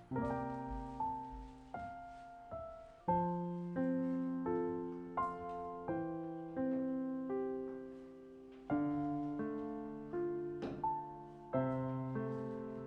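Background music: slow, gentle solo piano, chords and single notes struck every second or so, each ringing and fading away.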